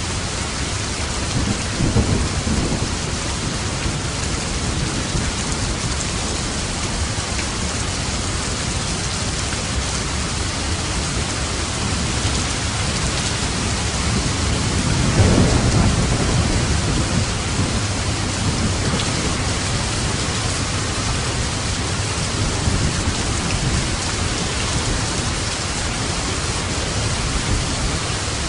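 Steady heavy rain with two rolls of thunder: a short low rumble about two seconds in and a louder, longer one about halfway through.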